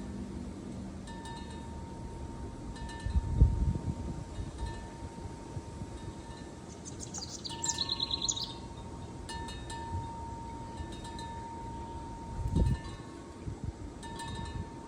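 Wind chimes ringing with long sustained tones that come and go. About eight seconds in there is a brief burst of rapid high chirps, and there are two low thumps, near 3.5 s and 12.5 s.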